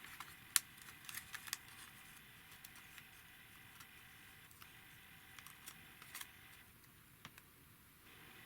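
Faint scattered small clicks and light taps of handling over low room tone.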